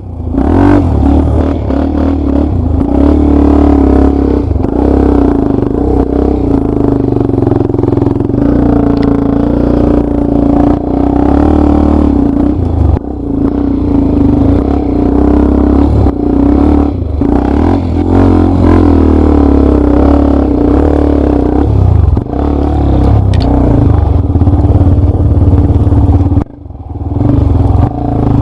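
Dirt bike engine running hard under steady throttle on a trail. The engine drops off briefly near the end, then picks up again.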